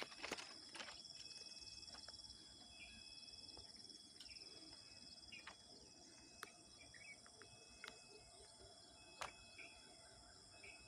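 Near silence with a steady high-pitched insect chirring and a few faint scattered clicks.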